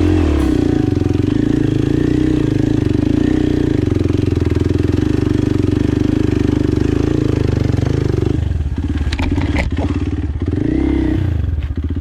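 Kawasaki KLX 230 trail bike's single-cylinder engine running at steady revs. About eight seconds in the note changes: a few sharp knocks, then the revs briefly rise and fall.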